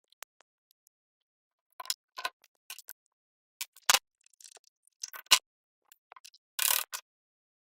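Scattered sharp clicks and clacks of hand tools and metal parts being handled during an engine rebuild, with a brief scraping rustle near the end.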